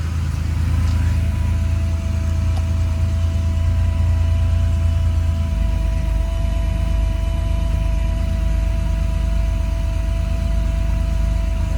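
1986 Porsche 911 Carrera's air-cooled 3.2-litre flat-six idling steadily about a minute after a cold start, the engine still cold. A thin steady whine sits above the engine note, and the low note shifts slightly about halfway through.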